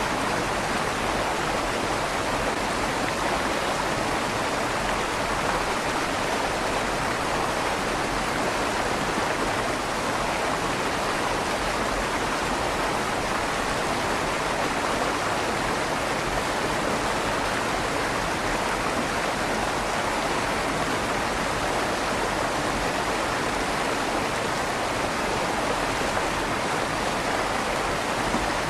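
River water flowing steadily through a stone bridge tunnel, a continuous even rush with a slight echo off the tunnel walls.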